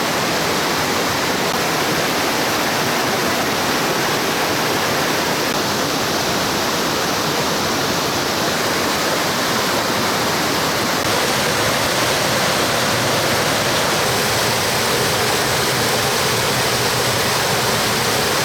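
Mountain stream water rushing over rocks in a steady, loud, even roar of cascading water.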